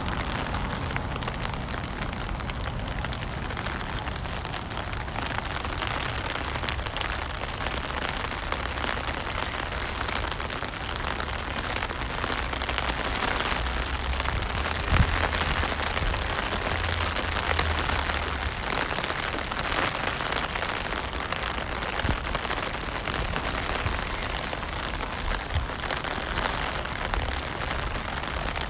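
Steady rain falling on a wet road and pavement, an even hiss with a few sharp taps, the loudest about halfway through.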